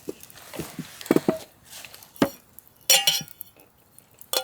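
Tableware being handled and set down: dishes and glasses clinking and knocking together in a handful of separate sharp clinks, one about three seconds in ringing briefly.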